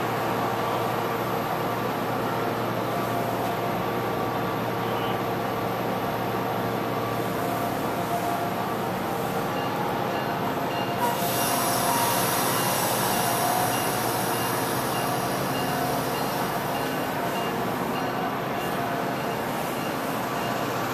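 MBTA commuter train standing at the platform: steady mechanical hum from the train's running equipment. A high hiss comes in suddenly about eleven seconds in and keeps on.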